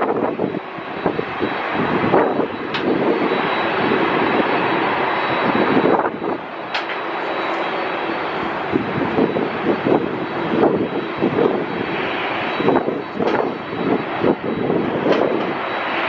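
Jet engines of an Airbus A380 airliner close by: a loud, steady rush with a thin high whine running over it, its level rising and falling unevenly.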